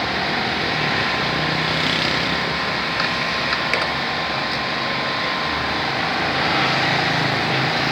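Steady engine-like running noise throughout, with a few light clicks about three seconds in.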